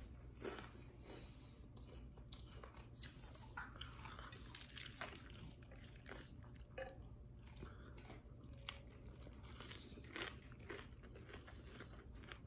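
Quiet, irregular crisp crunches of someone biting and chewing a deep-fried taro and shrimp fritter wrapped in fresh lettuce.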